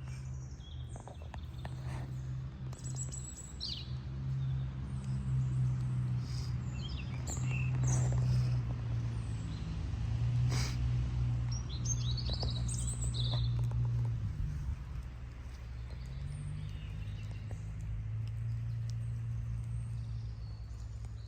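Small birds chirping in short, scattered calls over a steady low hum, with a few faint knocks.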